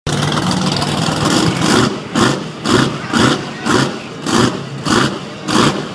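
Monster truck engine running, then revved in short, regular blips about twice a second from two seconds in.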